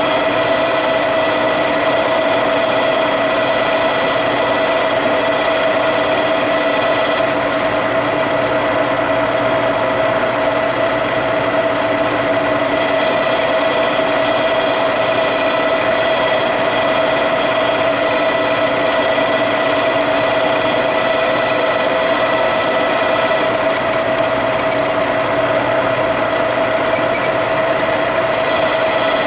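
Metal lathe running steadily, with a constant mid-pitched whine and no breaks.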